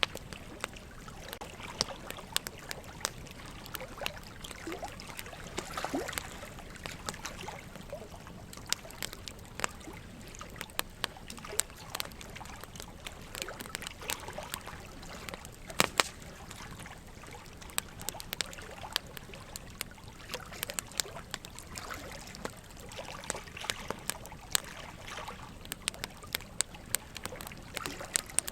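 Wood fire crackling in a fireplace, with irregular sharp pops and snaps, over a steady trickle of running water. The loudest pop comes a little past halfway.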